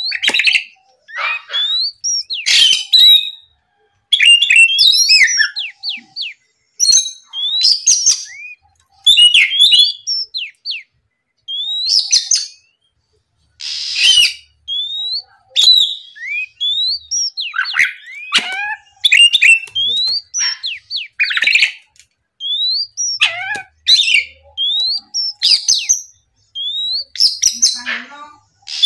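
Oriental magpie-robin singing vigorously in 'gacor' style: phrases of clear rising and falling whistles mixed with harsh, scratchy notes, repeated with short pauses between them.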